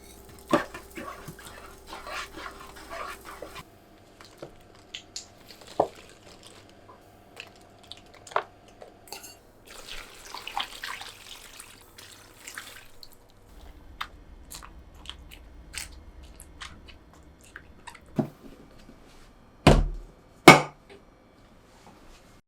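Kitchen handling sounds: scattered light clicks and knocks of things being set down and moved, a short run of water hiss partway through, and two heavy thumps near the end.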